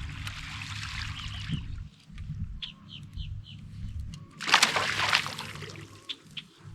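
Water splashing once, loudly, about four and a half seconds in, over a low steady hum, with short bird chirps scattered through.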